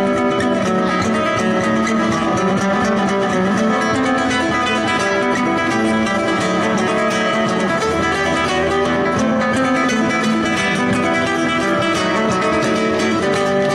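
Guitar music with rapid plucked notes and strummed chords.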